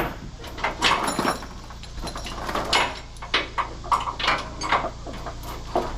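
Metal chains clanking in a series of irregular knocks and rattles as they are handled and hauled.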